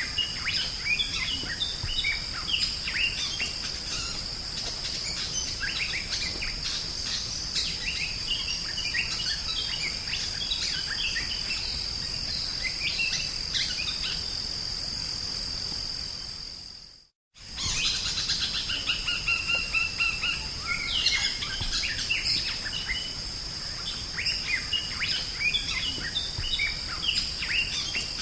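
Drongo (sri gunting) singing a busy run of short varied chirps and whistles, over a steady high-pitched whine. The sound fades out to silence and back in about two thirds of the way through.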